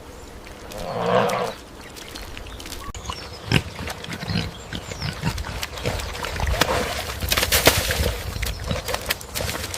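Pig grunting and snuffling, with a burst of grunting about a second in and many short clicks and knocks throughout.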